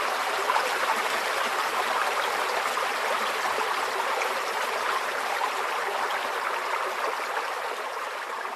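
Forest stream flowing steadily: a continuous, even rush of running water, beginning to fade slightly near the end.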